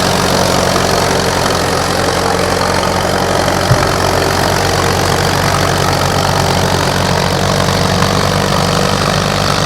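Antique farm tractor engine running steadily at low speed, its even low note the kind by which the make and model can be told. A single short knock sounds nearly four seconds in.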